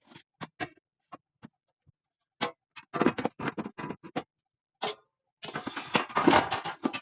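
Irregular clicks and knocks of objects being handled, a few scattered taps, then a quick run of them about three seconds in and a denser clatter near the end.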